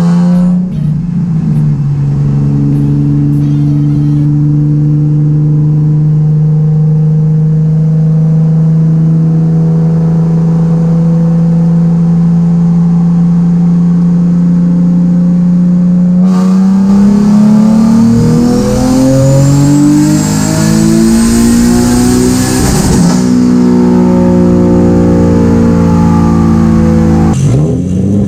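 Single-turbo Nissan 370Z's 3.7-litre V6 on a chassis dyno. It holds a steady engine speed for about sixteen seconds, then pulls at full throttle: the engine note climbs together with a rising turbo whistle, cuts off suddenly about 23 seconds in as the throttle is lifted, and then winds down.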